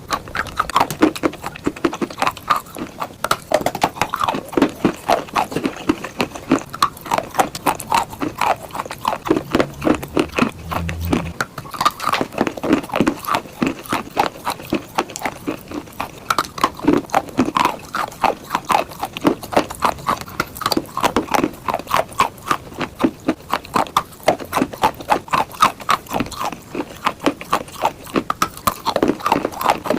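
Chalk being bitten and chewed close up: a quick, irregular run of sharp crunches and cracks, several each second.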